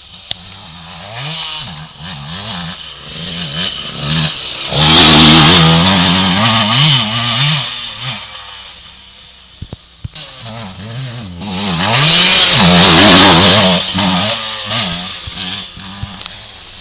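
Motocross bike engine revving up and falling back again and again as it is ridden round the track, growing loud twice as it comes close, about five and twelve seconds in.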